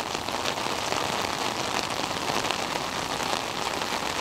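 Heavy rain pouring down, a steady dense hiss of many drops spattering.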